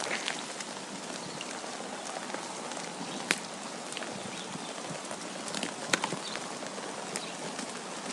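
Steady wind hiss with scattered light ticks and clicks; two sharper clicks stand out, about three and six seconds in.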